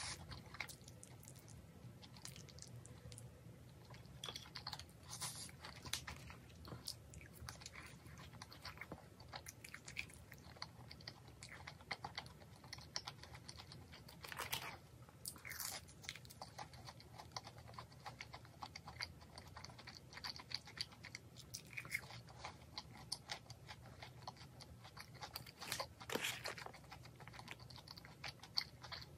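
Close-up chewing and crunching of fried chicken with raw onion slices and mayo sauce, many small crisp crackles scattered throughout, a few louder crunches standing out about halfway and near the end.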